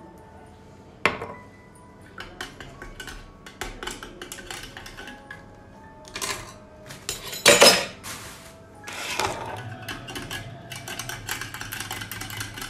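Dishes and cutlery clinking and clattering in irregular knocks, with a louder clatter about seven and a half seconds in. Soft background music plays underneath.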